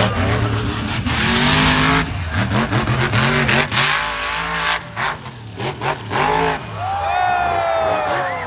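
Monster truck engine revving hard over and over, its pitch climbing and dropping, with a falling whine near the end.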